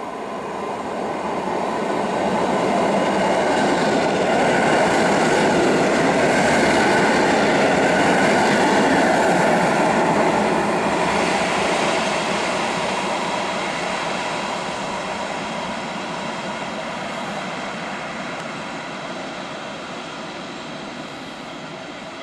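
An EN57FPS electric multiple unit running past on the rails with a steady rumble and some wheel clatter. It builds over the first few seconds, is loudest through the middle, then fades slowly as the train moves away.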